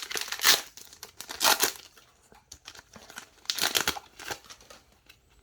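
Wrapper of a Yu-Gi-Oh Rush Duel booster pack crinkling and being torn open by hand, in several short rustling bursts with brief pauses between.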